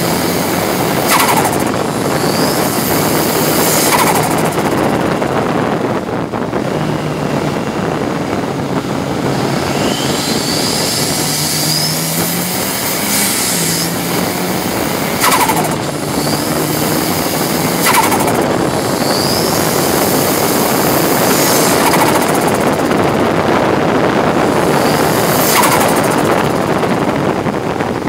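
Ford Sierra RS Cosworth's turbocharged 2.0-litre four-cylinder engine under hard acceleration at racing speed, heard from inside the stripped cabin. It revs up and breaks sharply at each gear change, about five times.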